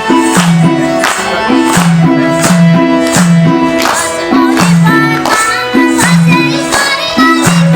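Live Nepali folk music: a band playing a steady beat of about two drum strokes a second over a repeating bass line, with a melody above.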